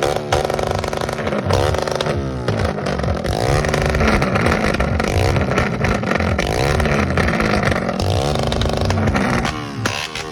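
Motorcycle engines revving hard again and again, the pitch rising and falling about once a second.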